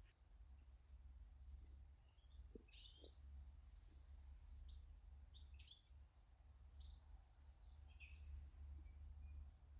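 Faint short chirps and calls of small garden birds, scattered through the clip, with one louder call a little after eight seconds, over a steady low rumble.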